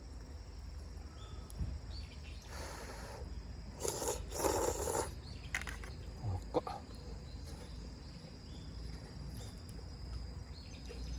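Two short noisy bursts of eating sounds, likely slurps of hot udon noodles, about three and four and a half seconds in, followed by a couple of light clicks. Under them a high, steady insect trill runs on.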